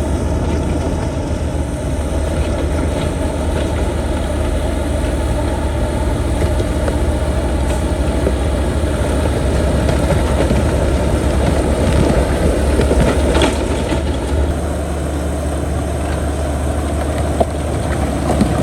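Heavy diesel engine of earthmoving machinery running steadily with a deep hum, a little louder for a few seconds past the middle.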